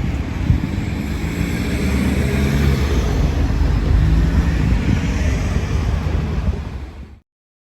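JR Shikoku 1000 series diesel railcar running through a level crossing, a loud rumble of engine and wheels with wind on the microphone, loudest about four seconds in and then easing off before cutting off suddenly near the end.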